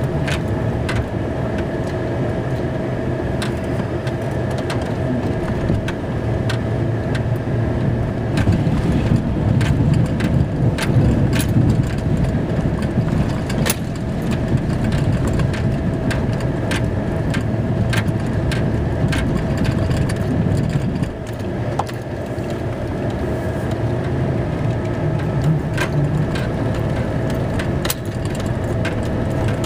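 Snow-plow truck's engine running as it pushes and backs through heavy snow, with a steady whine over the engine and scattered sharp clicks and knocks; it swells louder for a few seconds about a third of the way in.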